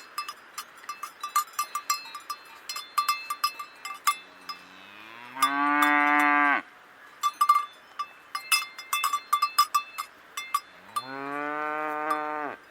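Cows mooing twice, each a long call that rises in pitch at the start, the first louder, over steady clanking of cowbells.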